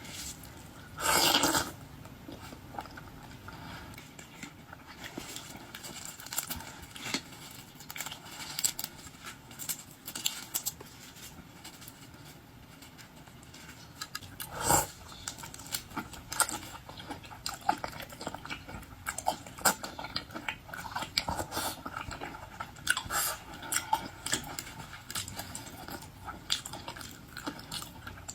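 Close-miked chewing and crunching while eating boiled shellfish such as shrimp, with many small crackles and clicks of shell and mouth sounds. Louder crunches come about a second in and again about halfway through.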